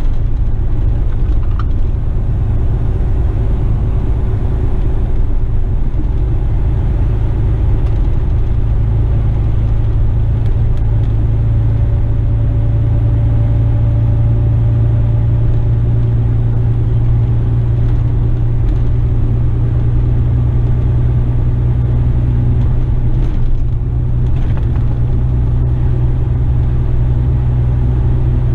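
Western Star tipper truck's diesel engine running steadily on the move, a loud low drone with road noise, heard from inside the cab.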